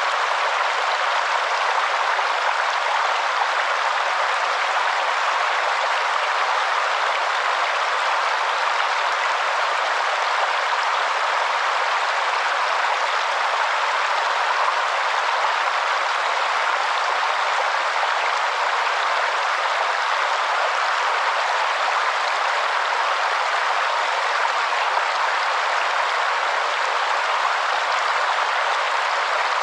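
Steady rushing of a waterfall, an even unbroken wash of falling water with little deep rumble.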